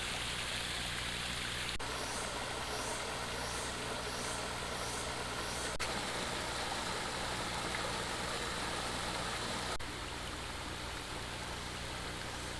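Shallow stream flowing steadily over rocks, with a steady low hum underneath. A high, repeating warbling call sounds from about two to six seconds in.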